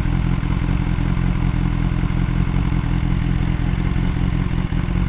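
BMW S1000R's inline-four engine running steadily through an aftermarket SC-Project end can, an even low drone that holds one pitch.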